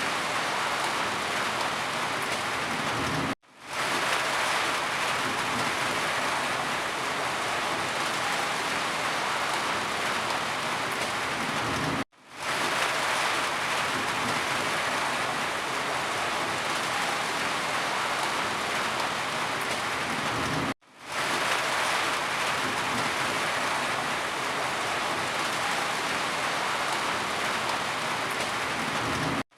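Steady heavy rain falling on a surface, a dense even patter. It cuts out abruptly to silence three times, roughly every nine seconds, and fades back in within about half a second each time.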